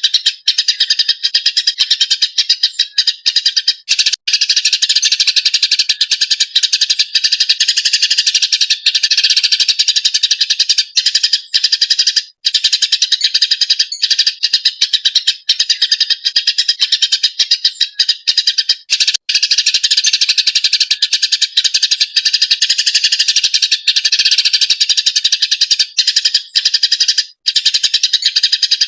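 Eurasian tree sparrow chattering agitatedly in a fast, unbroken run of loud, high chirps, with only a few brief gaps.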